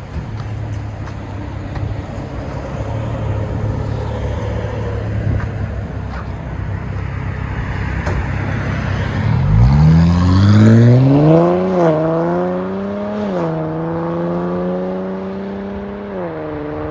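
Infiniti Q50 S's 3.0 twin-turbo V6 with mufflers and resonators cut out for straight pipes, heard from inside the cabin. It drones low while cruising, then about halfway through it accelerates hard, its pitch climbing steeply, dipping at two quick upshifts and dropping again near the end.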